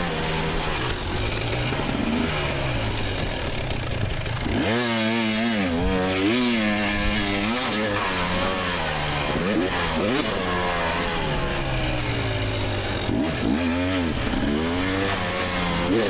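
2024 GasGas EX300's two-stroke engine running under the rider, its pitch rising and falling again and again as the throttle is opened and closed.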